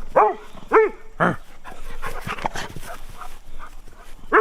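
A dog barking: three short, sharp barks in the first second and a half, softer sounds from the dog in between, and another bark at the very end.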